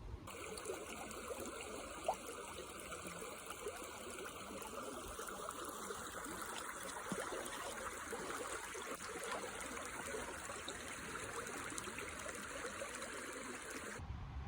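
Running water, a steady splashing trickle.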